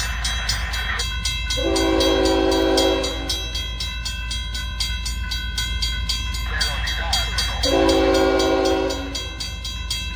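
Diesel freight locomotive sounding its air horn in two long blasts, one early and one about two-thirds of the way through, over a steady low engine rumble. A bell rings rapidly throughout.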